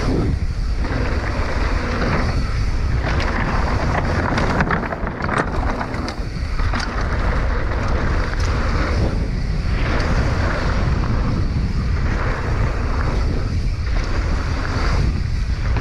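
Wind rushing over the GoPro's microphone and knobby tyres rolling on dirt during a fast mountain bike descent. The roar is steady and loud, with brief lulls every two seconds or so.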